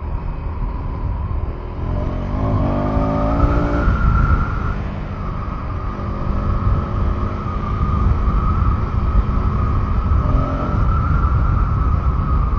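KTM 390 Enduro R's single-cylinder engine running under way off-road, revving up with a rising pitch about two seconds in, then holding a steady pace over a low rumble.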